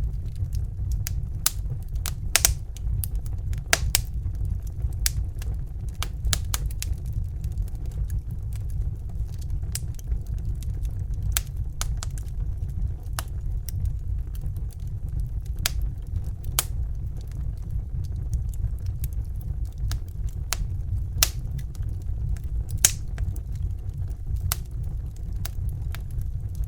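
Fire crackling, with irregular sharp pops and snaps, a few louder than the rest, over a steady low rumble.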